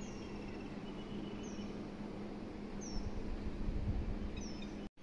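A bird calling a short, high, falling note four times, about a second and a half apart, over steady outdoor background noise with a faint low hum.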